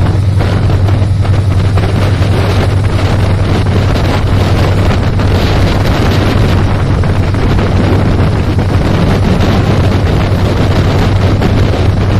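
Passenger train running through at speed: a loud, steady rumble with wind buffeting the microphone.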